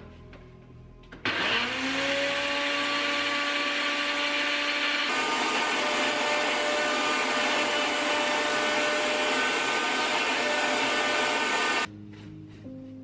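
Electric mixer grinder grinding roasted whole spices into powder. Its motor spins up with a rising whine about a second in, then runs steadily. The noise thickens about five seconds in, and the motor cuts off suddenly near the end.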